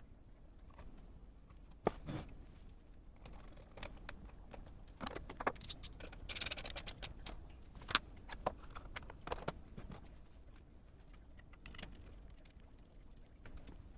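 Small metal objects being handled in a workshop: scattered faint clicks and clinks, with a brief jingling rattle about six seconds in.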